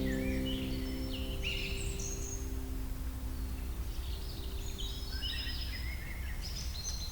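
Wild birds chirping and calling in quick short notes over a steady low rumble, while a held music chord fades out over the first few seconds.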